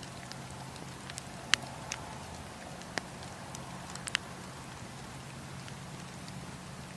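Wood campfire crackling: a steady hiss with a few sharp pops, the loudest about one and a half seconds in, others near two, three and four seconds in.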